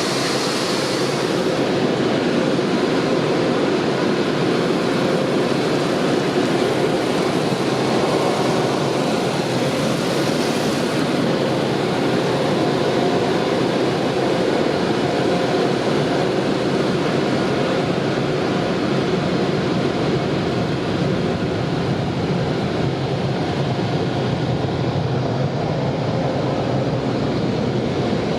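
An automatic tunnel car wash heard from inside the car: its equipment and water spray make a loud, steady roar. A high spray hiss fades out about a second in.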